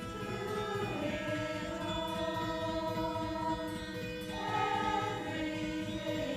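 Women's choir singing in harmony, holding long chords that move to new notes every second or two.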